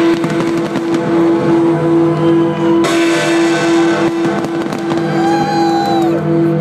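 Fireworks going off in quick succession, with sharp bangs and crackle, over loud music with a steady pulsing beat played with the display. A short falling whistle sounds about five seconds in.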